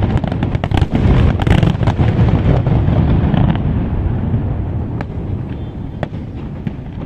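Aerial fireworks display: a dense run of rapid crackling and shell bursts that thins out after about three seconds, ending with a couple of single bangs near the end.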